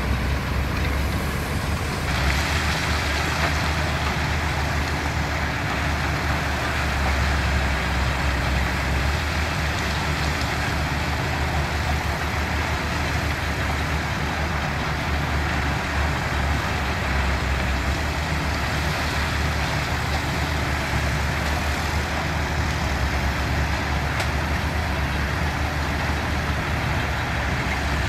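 Diesel engines of construction machinery running steadily with a low drone, joined about two seconds in by a continuous hiss.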